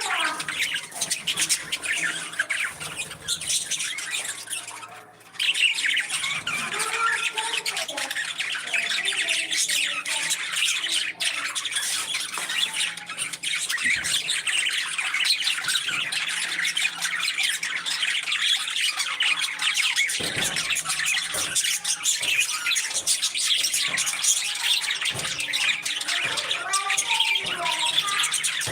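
A flock of parrots chattering and squawking continuously, many short high calls overlapping. The sound drops away briefly about five seconds in, then resumes.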